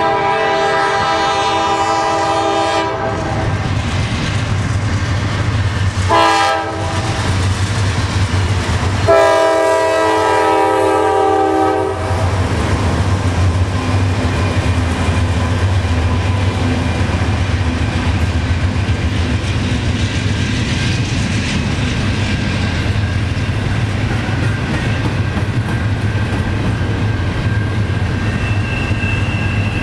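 Nathan K5LA air horn on a GE C44-9W diesel locomotive: a long blast, a short one about six seconds in, and another long one about nine seconds in. Then the C44-9W locomotives pass with their engines running, followed by the steady rumble and clickety-clack of double-stack container cars on the rails.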